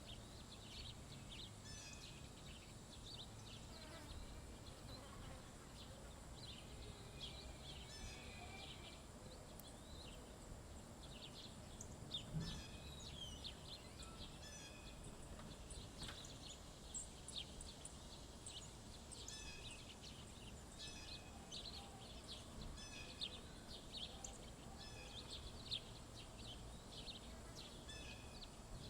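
Wild birds chirping in many short, scattered calls, faint over a low background rumble, with a steady high-pitched tone running beneath. A brief low thump sounds about twelve seconds in.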